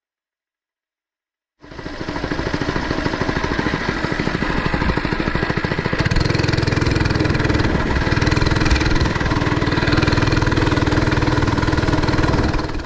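Small mini bike engine running with a rapid, even firing beat, louder from about six seconds in. It starts suddenly after a second and a half of silence and dies away at the end.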